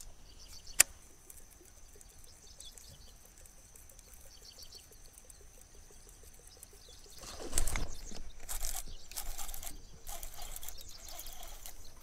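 Small birds chirping faintly, with a single sharp click about a second in. From about seven seconds in comes a run of loud noisy bursts.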